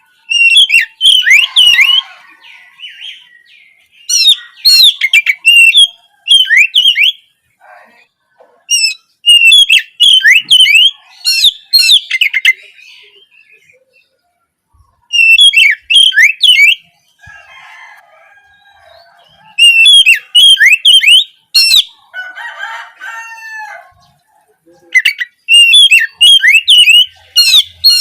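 Oriental magpie-robin (kacer) singing loud, repeated phrases of quick, sharp down-slurred whistles, each lasting a second or two with short pauses between them. There are fainter, lower, rougher calls twice during the middle stretch.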